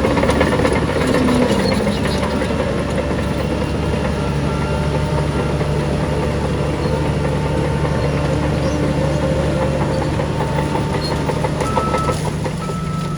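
Heavy diesel engine of earthmoving machinery running steadily. A reversing alarm starts beeping near the end.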